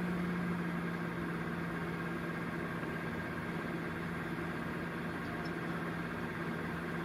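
Hyundai Tucson idling at a standstill, heard from inside the cabin, with a steady low hum over the engine noise.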